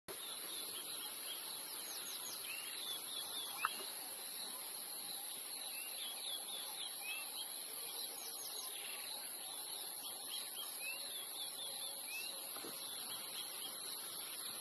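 Many small birds chirping in short, repeated twitters over a steady high-pitched hiss, with one sharp click a few seconds in.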